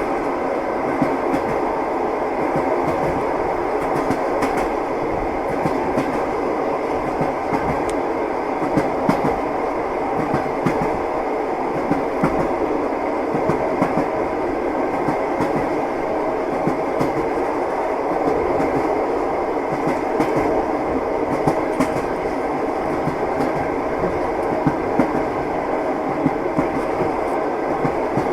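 Passenger train running at speed, heard from inside the carriage: a steady rolling rumble with the wheels knocking over rail joints in irregular clicks.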